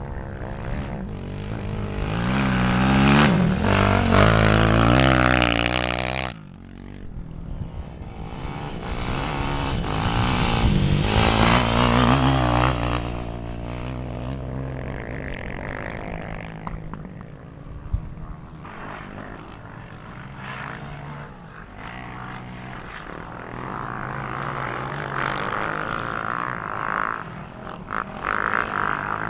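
Off-road racing motorcycle engine revving up and down as the rider works the throttle. It is loudest in the first few seconds and drops off sharply about six seconds in. It then climbs again and settles to a quieter, uneven running note in the second half.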